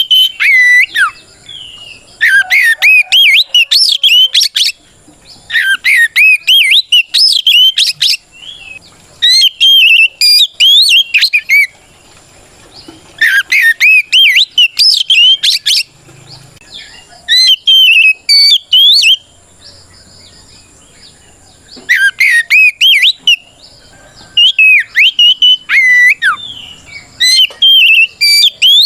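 Oriental magpie-robin (kacer) in full loud song: rapid, varied whistled phrases of a second or three each, repeated with short pauses between them. This is the male's territorial calling to a rival.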